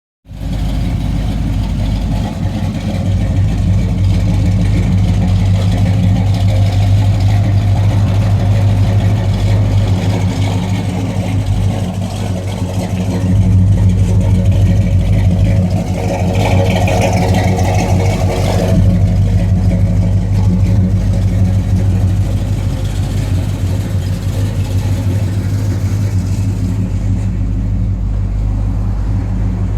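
1972 Chevelle's 350 small-block V8 with a performance cam, idling with a mean idle through a Thrush muffler. It gets louder for a few seconds about halfway through.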